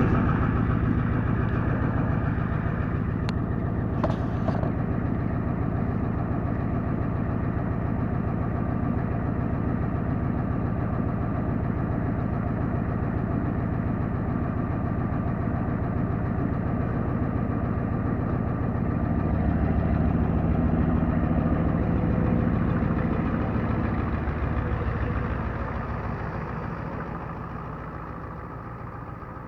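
Naturally aspirated 7.3 L IDI V8 diesel of a 1993 Ford F-350 idling with a steady diesel clatter while warming up after a cold start. Two short clicks come a few seconds in, and the sound gets a little louder past the middle before fading over the last few seconds.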